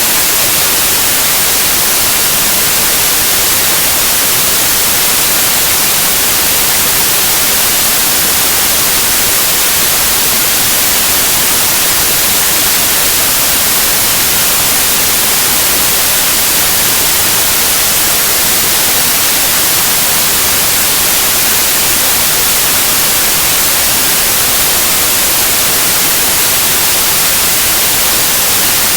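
Steady white noise: an even, loud hiss with no change.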